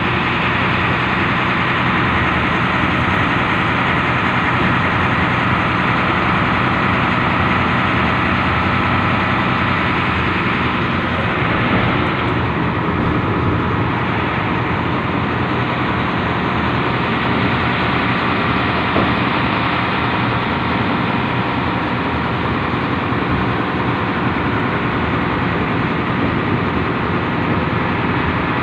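Industrial locomotive's engine running at a steady, unchanging drone, heard from on board the train.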